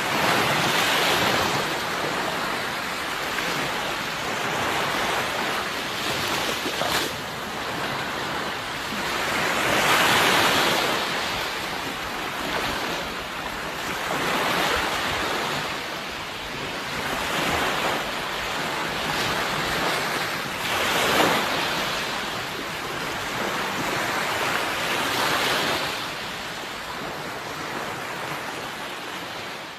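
Sea waves breaking on a shore: a continuous rush of surf that swells and falls away every few seconds.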